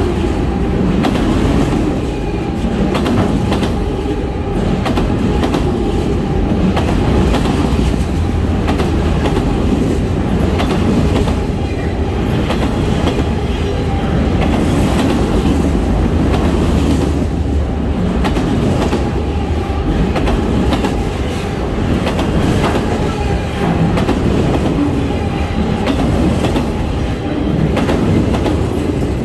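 Freight train of multilevel autorack cars rolling steadily past close by: a continuous rumble with wheels clicking over the rail joints.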